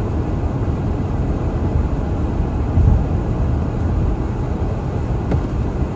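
Steady low rumble of a car driving along a highway, heard from inside: tyre and road noise with the engine. It swells briefly about three seconds in.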